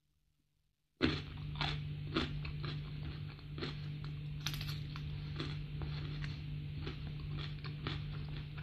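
Close-miked crunching and chewing of crisp food in the mouth, repeated irregular crunches starting about a second in, over a steady low hum.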